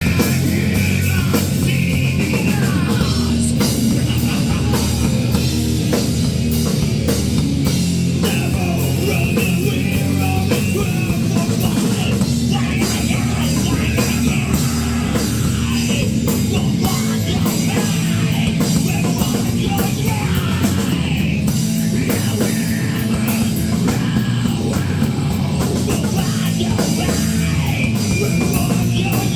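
Rock band playing a song live, loud and heavy, with a drum kit keeping a dense, steady beat.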